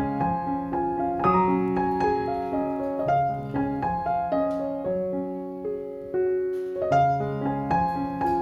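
Background piano music: a slow, gentle melody over chords.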